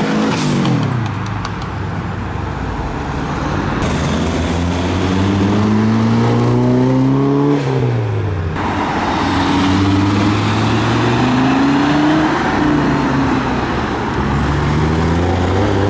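Performance car engine accelerating away, its revs climbing and dropping sharply at each gear change, up through the gears about three times.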